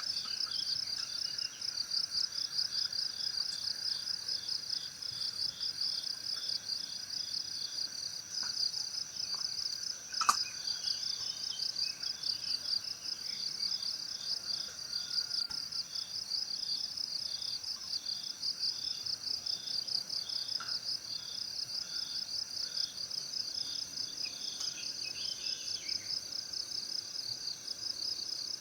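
Crickets chirping steadily in a fast, even pulsing trill, with a single sharp crack about ten seconds in.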